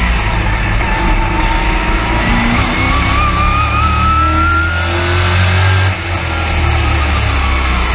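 Race truck engine heard from inside the cab, under load with the revs climbing steadily for several seconds. Near six seconds in the revs drop sharply, as when the driver lifts off the throttle, then build again.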